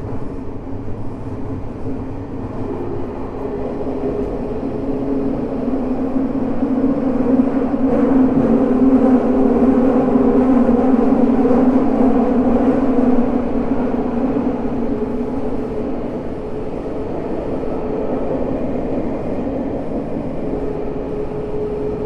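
Tokyo Metro 05 series subway train with a Mitsubishi IGBT inverter, heard from inside the car while running between stations: wheel and motor noise with steady humming tones, swelling to its loudest in the middle and then easing off.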